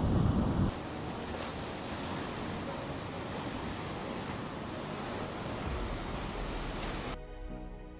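A loud low rumble cuts off abruptly under a second in and gives way to a steady rushing noise. Soft music with held notes takes over near the end.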